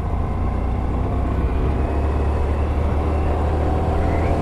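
Honda Varadero 125's small V-twin engine running steadily on the move, under a heavy, steady rumble of wind on the microphone.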